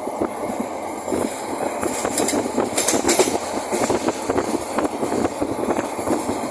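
Sonar Bangla Express train running along the track: a steady rumble of wheels and carriages with rapid clicking and rattling, and a brief burst of high sound about two to three seconds in.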